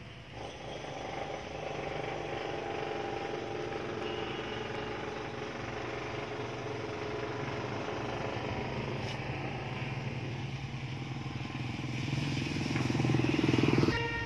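Motorcycle engine running steadily, growing louder over the last two seconds.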